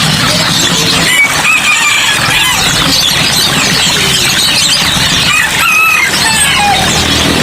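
Dense chorus of many caged songbirds of mixed kinds chirping, twittering and trilling at once, with short high calls overlapping throughout.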